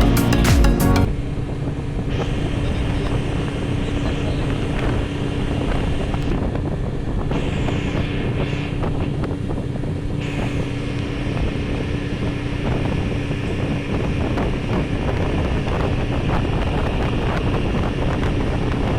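Background music cuts off about a second in, then a motorboat's engine runs with a steady hum under wind on the microphone.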